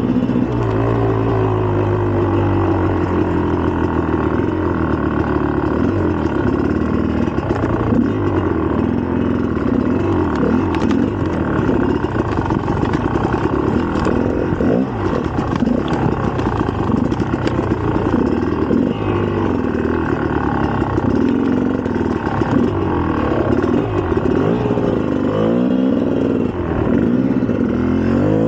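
A 2004 GasGas EC300's single-cylinder two-stroke engine running under way, its pitch rising and falling with the throttle, with quick revs up and down near the end.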